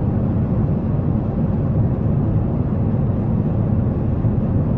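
Steady low rumble of an airliner cabin in flight: engine and airflow noise without change.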